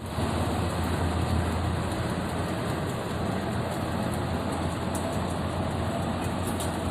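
Steady vehicle engine and road noise: a continuous low rumble under an even hiss.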